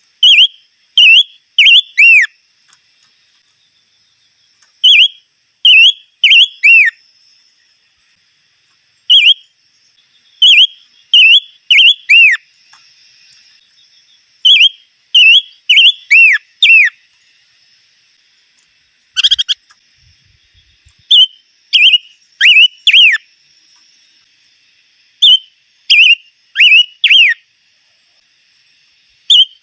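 A bird singing loud, clear whistled phrases of about four notes, each note sliding down in pitch, repeated every few seconds. One sharper, different call breaks in about two-thirds of the way through.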